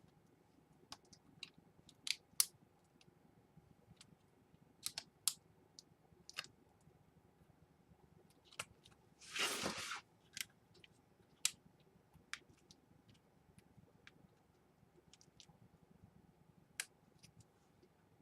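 Scattered faint clicks and taps of small plastic laptop parts being handled on a Dell Inspiron 11, with one louder noise lasting about half a second around nine and a half seconds in.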